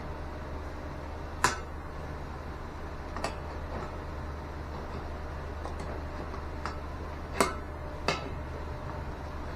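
Scattered sharp metallic clicks and clinks of hand tools on the old air compressor's fittings as a part is worked loose, three of them louder, over a steady low hum.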